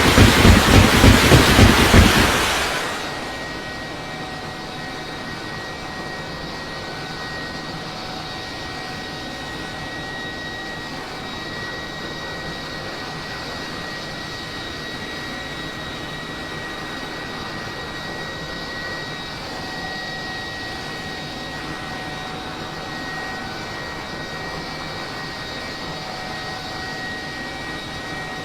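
Loud, rapidly pulsing rushing noise cuts off about two and a half seconds in. It gives way to an aircraft engine droning steadily, with a constant high-pitched whine over it.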